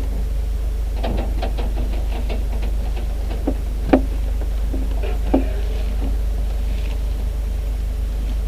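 Steady low drone in a Luscombe light aircraft's cockpit, with a quick run of clicks and rattles. Two sharper knocks come about four and five and a half seconds in.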